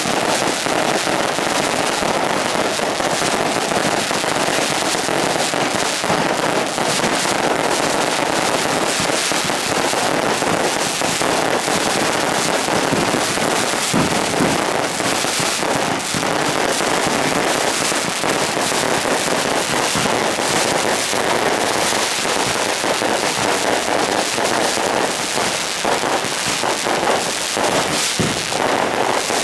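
A long string of firecrackers going off in a dense, unbroken crackle of rapid bangs, holding at a steady loudness throughout.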